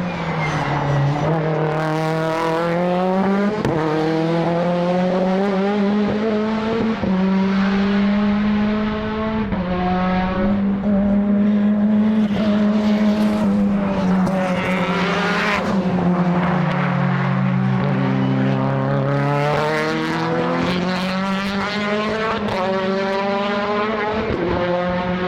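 Modified time-attack race car engine running hard on track, its revs climbing and dropping repeatedly through gear changes.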